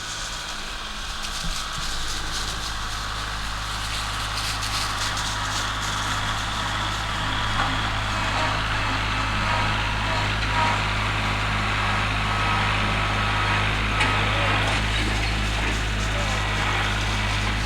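Kubota tractor engine running steadily at a constant speed, with scattered light cracks of wood and branches over it.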